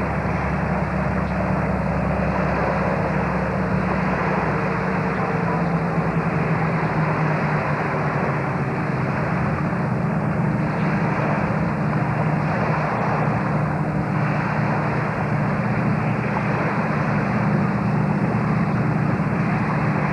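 An engine running steadily, with a low even hum under a constant rushing noise.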